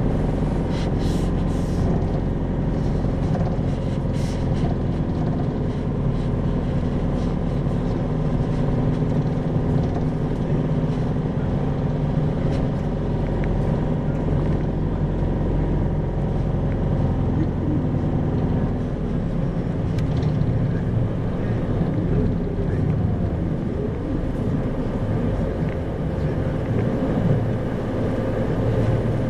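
Isuzu 2RG-LV290N4 city bus heard from inside the cabin: diesel engine running under way with steady road noise. A few light clicks come early on, and the engine note changes about two-thirds of the way through.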